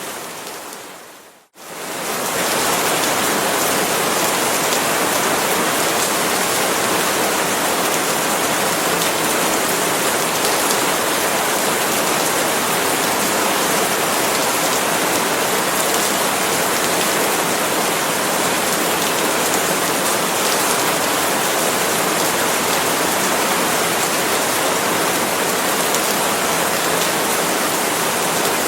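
Steady, dense rain falling on palm leaves. It fades out briefly about a second and a half in and swells back to the same even patter.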